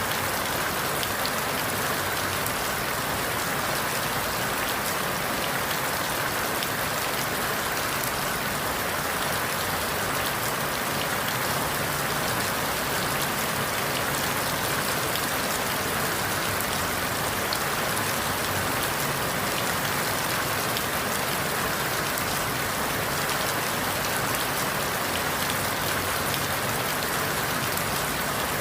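Steady rain falling through forest leaves, a constant even hiss with fine scattered drop taps.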